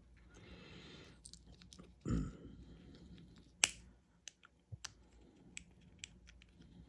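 Small objects being handled on a work surface: a soft rustle, a dull thump about two seconds in, then one sharp click followed by several lighter clicks.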